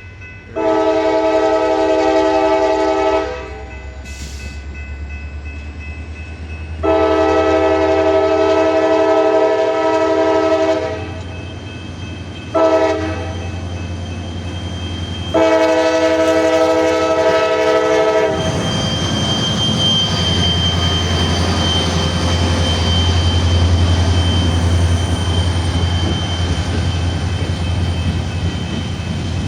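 Diesel locomotive's multi-note air horn sounding the grade-crossing signal: two long blasts, a short one and a long one. Then the locomotive's engine runs with the steady rumble of the train rolling.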